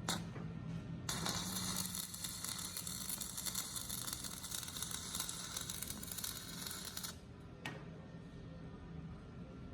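Electric arc welding on a steel gear: a steady crackling sizzle that starts about a second in and stops about seven seconds in. A low hum and a click follow in the pause.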